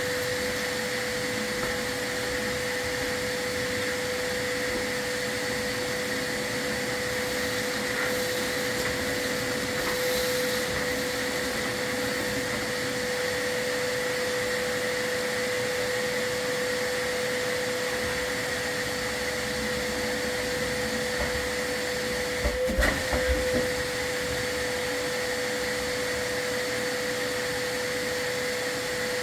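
Vacuum cleaner running steadily with a constant whine, as used to catch soot while sweeping a fireplace. A brief cluster of knocks comes about 22 seconds in.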